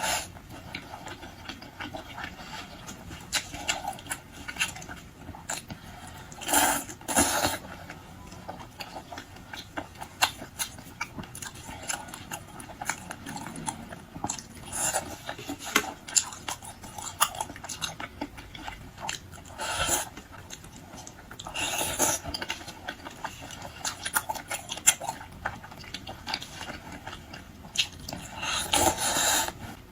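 Close-up eating sounds of a person eating crayfish: chewing and mouth smacks with many small clicks, and a few louder bursts now and then.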